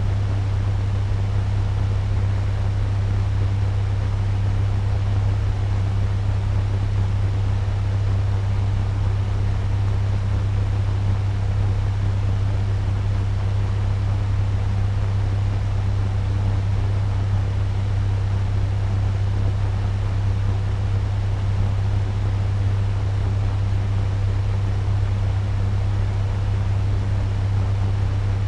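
Turbo fan running steadily at medium speed: an even rush of air over a strong, steady low hum.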